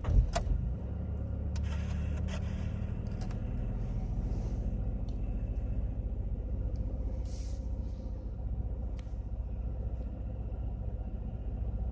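A 2000 Chevrolet Impala's 3400 V6 fires up and settles into a steady idle. The car has a hard-start and stalling fault: it dies as soon as the gas is touched.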